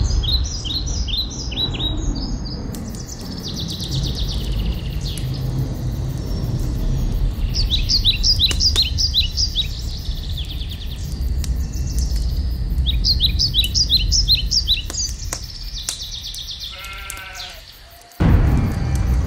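Birds chirping in repeated short bursts of quick high notes over a steady low rumble. A short, lower-pitched animal call comes near the end, and then the sound changes abruptly.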